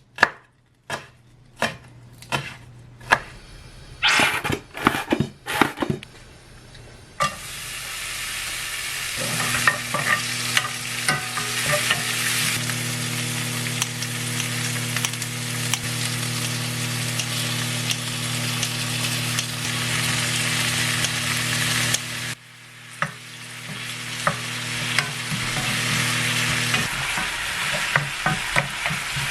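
Food sizzling as it fries in a pan, with a steady hum underneath for much of it. The first several seconds hold only scattered sharp clicks and knocks of utensils; the sizzling starts about seven seconds in, cuts off suddenly a little past twenty seconds, then builds again.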